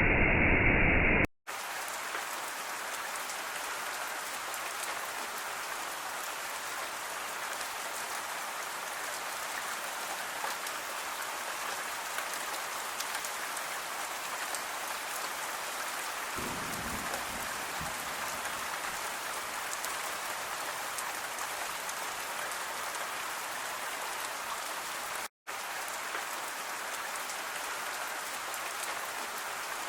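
Steady rain falling on surfaces, an even hiss of many drops. It takes over from a louder, duller rush of water that cuts off about a second in. The sound drops out for an instant twice, and a brief low rumble comes about halfway through.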